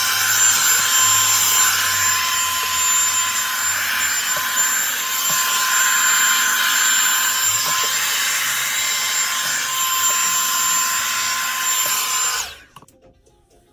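Revlon One-Step Volumizer hot-air brush running on its cool setting: a steady fan blowing with a thin high whine. It is switched off about twelve and a half seconds in and cuts out suddenly.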